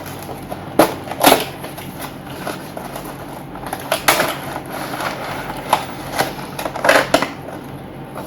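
A scale-model box and its packaging being handled and opened: scattered rustles and scrapes with sharp clicks, the loudest about a second in, around four seconds in and near seven seconds.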